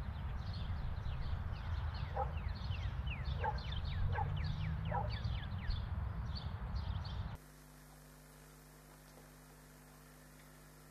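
Small birds chirping, many short downward-sliding calls, over a steady low outdoor rumble. About seven seconds in, it cuts off abruptly to near-silent room tone.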